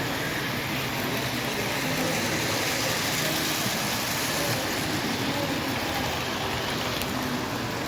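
Model diesel locomotive running on a club layout: a steady engine-like rumble under an even hiss of running noise.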